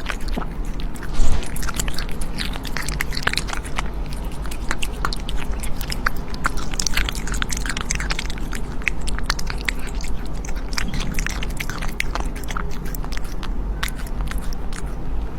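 An animal chewing crunchy food close to the microphone: a dense, irregular run of crisp crunches and clicks, with one louder knock a little over a second in.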